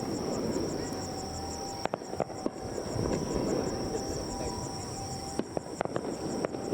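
Crickets chirping steadily with an even pulse, with a few sharp pops from fireworks bursts about two seconds in and again past five seconds, over a low hum of crowd chatter.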